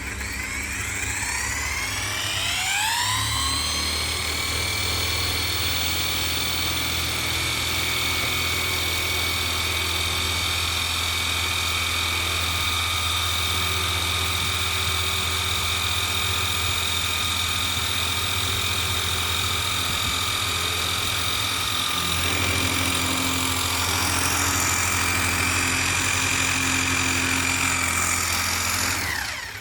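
Rebuilt Opel Signum engine running, its pitch rising over the first few seconds as it picks up speed, then holding steady. Its tone shifts slightly about 22 seconds in.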